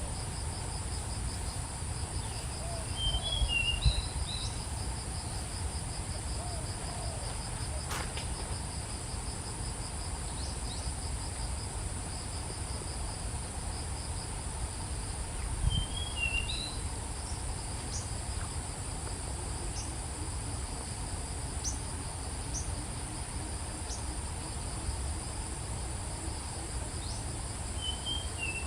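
A steady, high insect chorus with a pulsing trill, and a short chirping bird call heard three times, about every twelve seconds.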